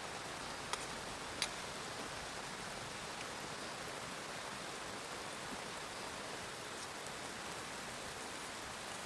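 Heavy rain falling steadily, an even hiss, with two sharp ticks of single drops about a second in.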